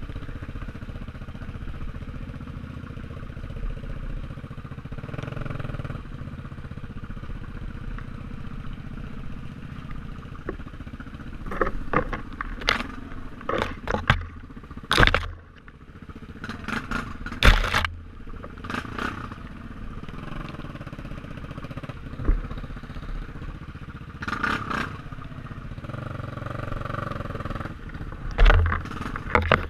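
Motorcycle engine running steadily. From about eleven seconds in, sharp knocks and clattering cut in over it again and again.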